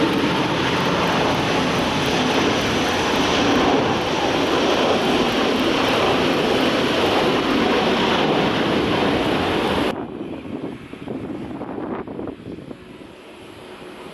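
Airbus A330-900's Rolls-Royce Trent 7000 jet engines, loud and steady. About ten seconds in, the sound cuts off abruptly to a much quieter, uneven aircraft noise.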